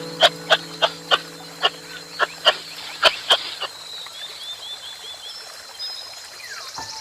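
An animal calling: about ten short, sharp calls in quick succession over the first three and a half seconds, followed by a run of quieter high chirps.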